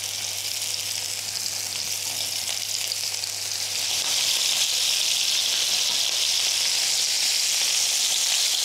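Small turkey roulades sizzling in hot rapeseed oil in a frying pan. The sizzle grows louder about four seconds in.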